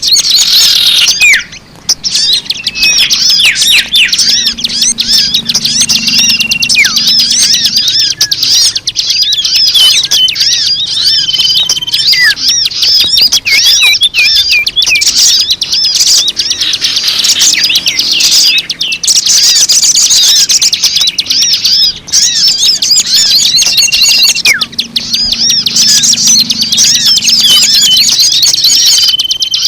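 Dense, loud chorus of many small birds chirping and twittering rapidly at high pitch without a break: a recorded bird-lure track played to attract wild birds. The same passage, with a short steady whistled note, seems to come round again about every 18 seconds.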